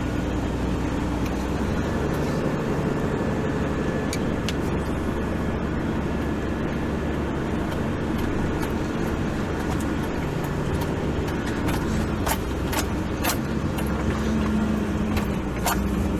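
Four-wheel-drive vehicle's engine running steadily while driving along a sand track, with short knocks and rattles in the second half.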